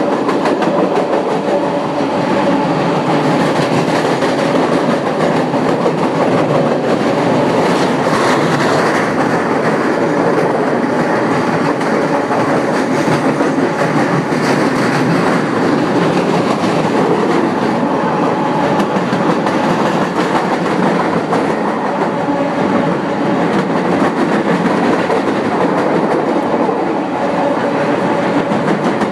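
A train passing directly overhead, about ten feet above, making a loud, steady rumble with the repeated clack of its wheels over the rail joints.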